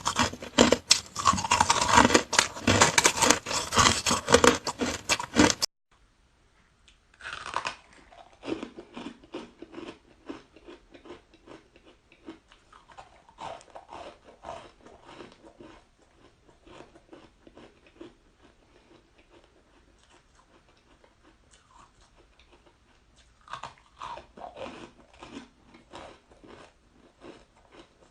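A person crunching and chewing frozen flavoured shaved ice close to the microphone. The first few seconds are loud, dense crunching that cuts off suddenly. After that come softer bites, about seven seconds in and again near the end, with quieter chewing between them.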